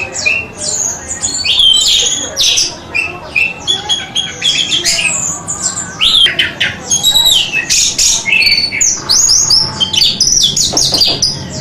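Orange-headed thrush singing a fast, continuous song of varied, whistled and squeaky notes.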